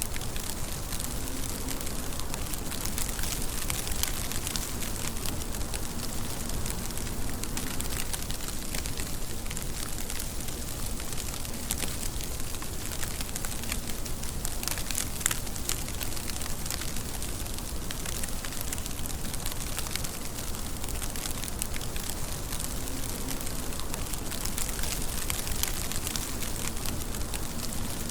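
Steady rain falling, a constant hiss with many sharp drop ticks scattered through it.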